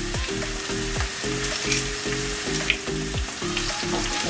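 Sliced onions and freshly pressed garlic frying in olive oil in a wok: a steady crackling sizzle with a few sharp clicks from the metal garlic press and wooden spoon. Under it runs a low, repeating run of notes.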